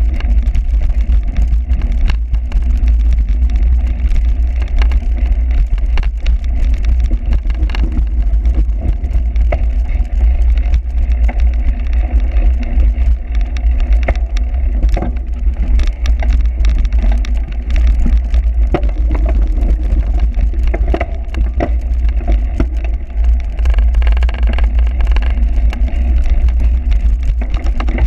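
Bicycle ridden hard over rough cyclocross ground: a heavy, steady wind rumble on the microphone under constant rattling and knocking from the bike.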